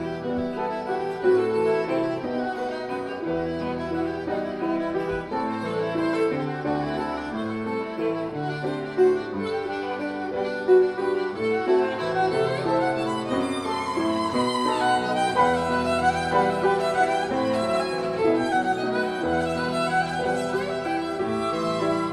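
Violin playing a melody over a lower chordal accompaniment, an instrumental break between sung verses.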